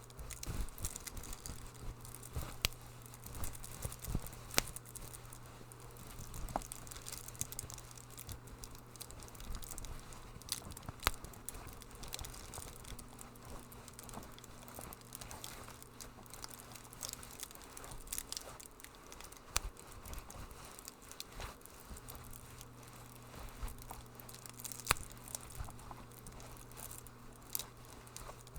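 Wood fire crackling in a fireplace, with irregular sharp pops and snaps over a low steady hum.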